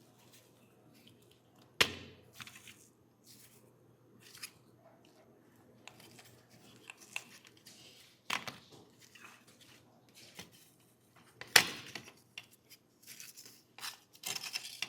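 Close-up handling of small hard parts and hand tools on a workbench: about three sharp clicks or knocks, the loudest about two seconds in, another about eight seconds in and the sharpest near twelve seconds, with short scraping and rustling sounds in between.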